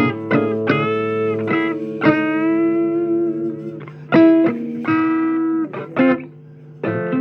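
Electric guitar playing a blues break between sung lines: picked single notes, some held and bent up in pitch.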